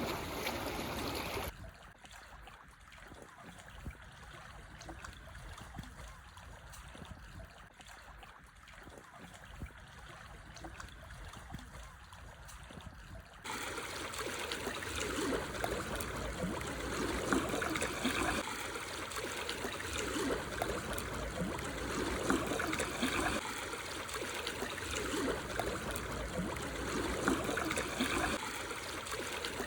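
Small sea waves lapping and washing over black stones on the shore, with water trickling and gurgling between the rocks. The sound drops suddenly about a second and a half in, then comes back louder about 13 seconds in, rising and falling with each wave every few seconds.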